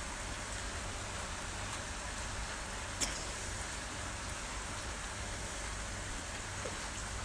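Rain pouring outside, a steady even hiss of falling water, with one sharp drip or tap about three seconds in.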